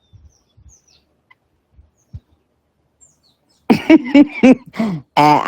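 Birds chirping faintly in the background, as short high chirps, then a woman's voice comes in loudly about two-thirds of the way through with a few short sounds that bend in pitch and a held note.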